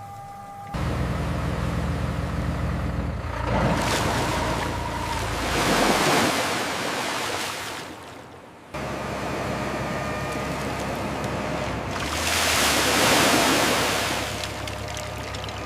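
Sea waves washing in twice, each swell building and falling away, over a steady low engine hum.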